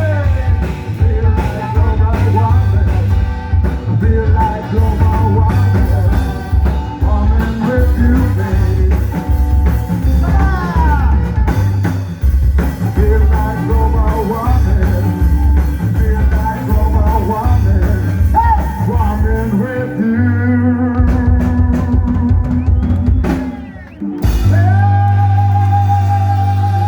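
Rock band playing with singing, drum kit and heavy bass. The steady beat gives way to held notes about two-thirds of the way in, drops out briefly, then comes back as a sustained chord near the end.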